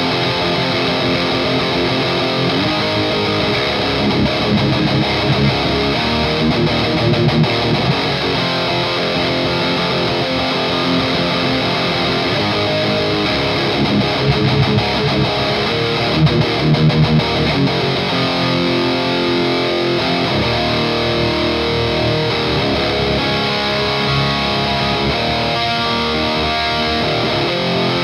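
Distorted electric guitar played through an EVH Iconic amp and a 2x12 cabinet, heavy riffing with louder bursts of low notes a few seconds in and again around the middle.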